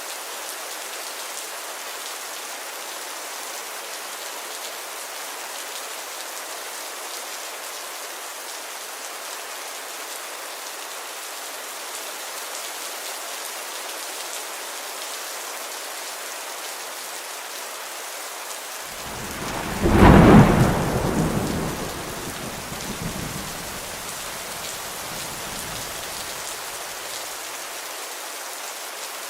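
Steady rain falling, with one loud clap of thunder about twenty seconds in that rumbles on for several seconds and fades away.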